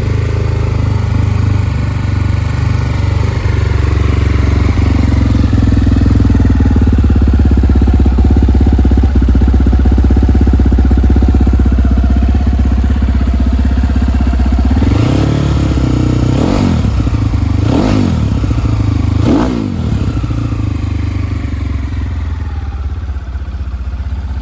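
BRZ X6 enduro motorcycle engine idling steadily, then blipped four times in quick succession about two-thirds of the way through, each rev rising and falling back to idle.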